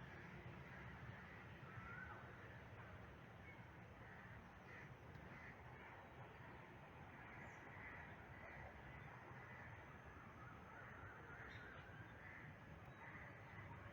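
Faint bird calls: short scattered calls, some rising in pitch, every second or so over a low background hum.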